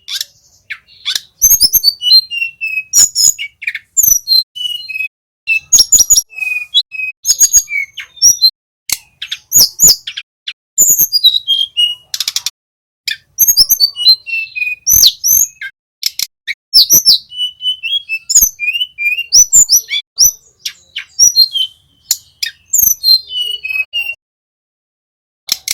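Male tledekan gunung, a small flycatcher, singing loud, rapid runs of short high chirps and quick sliding whistles, broken by brief pauses; the song stops about a second and a half before the end.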